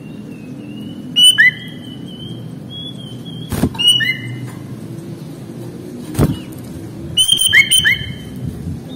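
Sooty-headed bulbul (kutilang) singing three short bursts of loud whistled notes, each a held note with quick downward slurs. Two sharp knocks fall between the bursts, and a steady low hum runs underneath.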